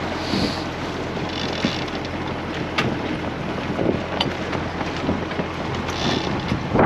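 Wind buffeting the microphone over the steady rush of water along a sailing yacht's hull, with two faint ticks a few seconds in.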